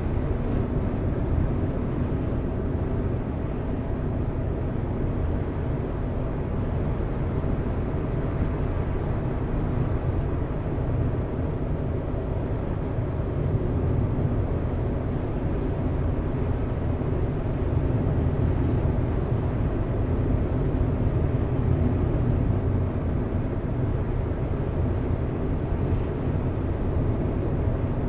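Car driving at a steady speed: a continuous low rumble of engine and tyre road noise with a faint steady drone.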